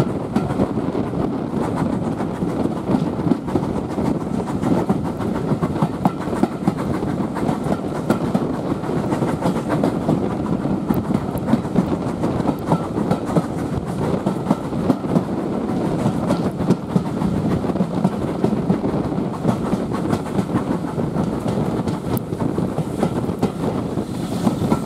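Train running along the track: a steady rumble with wheels clicking over the rail joints.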